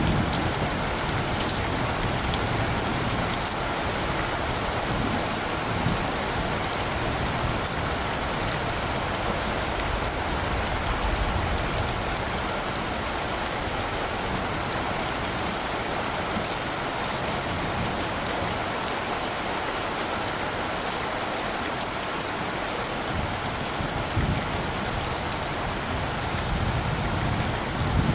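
Steady rain falling, with many separate drop ticks over an even hiss.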